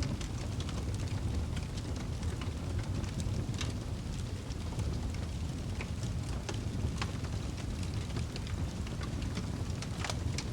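Fire burning in a fireplace: a steady low rumble of flames with irregular sharp crackles and pops throughout, a couple of louder pops near the end.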